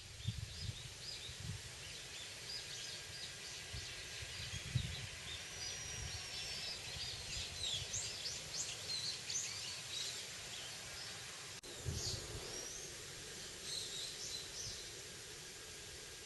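Birds chirping and calling in short, high notes over a steady outdoor hiss, with occasional low rumbles.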